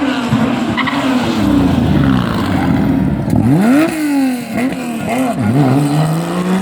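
Historic rally car engine driven hard: the revs fall as it slows for a corner, rise sharply about halfway through, dip and rise several times in quick succession, then climb steadily as the car pulls away.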